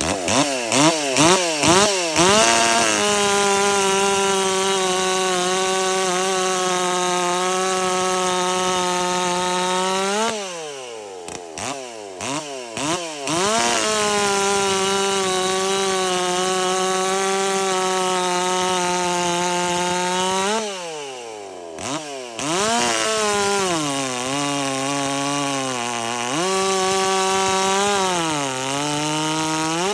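Stihl MS440 clone two-stroke chainsaw with a modified muffler, revved several times, then held at a steady full-throttle scream for several seconds, dropped back to idle with a few blips, and held wide open again. Near the end the engine pitch sags and recovers twice.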